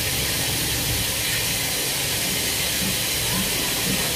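Chicken and pork pieces frying in hot oil: a steady sizzling hiss.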